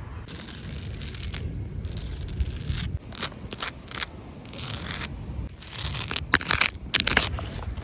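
Dry leaves crunching and crackling in irregular bursts, loudest about three seconds in and again near the end.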